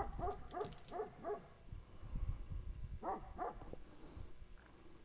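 A dog whining in short, pitched yelps: a quick run of about five near the start, then two or three more about three seconds in.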